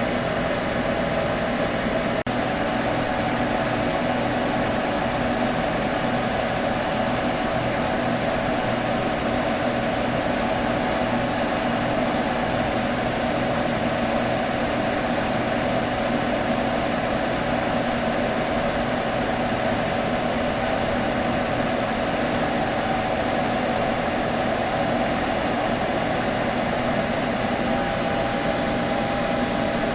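Computer humming steadily: a constant whir with a steady pitched drone under it and no change in speed.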